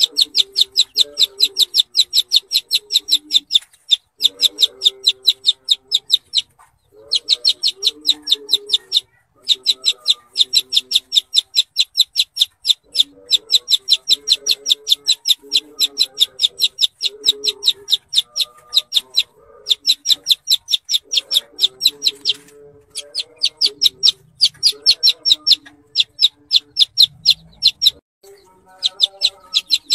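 Bird that Indonesian bird keepers call 'kuntilanak' singing a fast, even run of sharp high notes, about eight a second, in bouts of two to four seconds with short breaks between them. Lower clucking notes run underneath.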